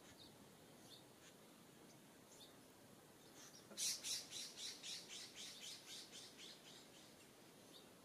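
A songbird calls a quick run of about a dozen sharp, high notes, loudest at the start and fading away over about three seconds. Faint chip notes from other birds come and go.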